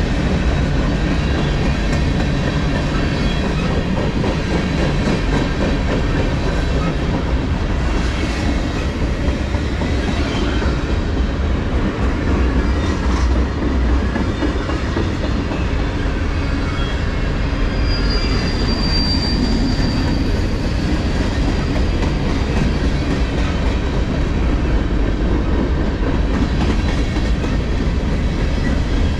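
Freight cars of a long manifest train rolling past close by: a steady rumble of steel wheels on rail with occasional clacks, and a thin high-pitched wheel squeal for about two seconds, about two-thirds of the way through.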